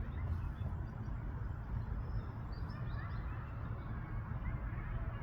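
Steady low rumble, like wind on the microphone or distant traffic, with faint scattered bird chirps over it.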